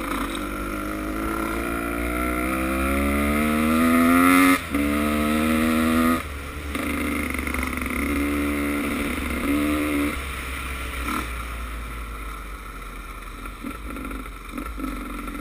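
Motocross bike engine accelerating, its pitch climbing steadily, with a brief break for a gear change about four and a half seconds in. It holds high for a moment, cuts off, then gives two shorter bursts of throttle before settling to a lower, quieter running sound.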